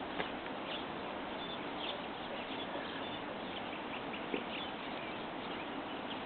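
Birds chirping faintly here and there over a steady outdoor background hiss.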